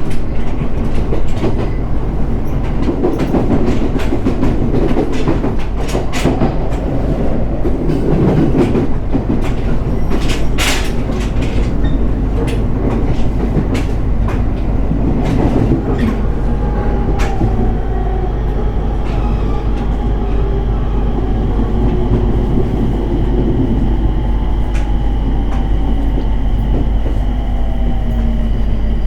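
Running sound inside a JR East 701 series electric train: wheels clacking over rail joints, then from about halfway a whine from the motors that falls slowly in pitch as the train slows for its terminal stop.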